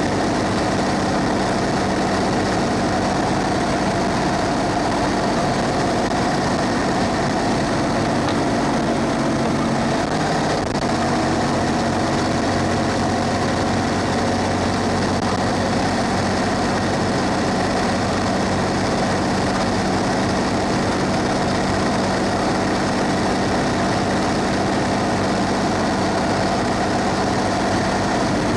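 Cummins ISB 6.7-litre diesel engine of a 2016 Thomas Saf-T-Liner C2 school bus running steadily, heard from inside the bus, with a constant hum and a steady background of road noise.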